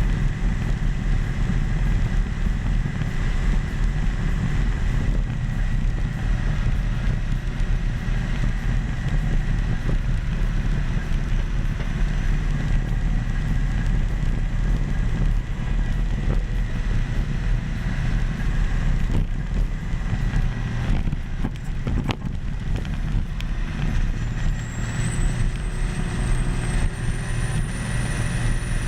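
Caterpillar D10 bulldozer's diesel engine running steadily under load, a dense low rumble with a thin steady whine above it. A faint high whine rises in pitch near the end.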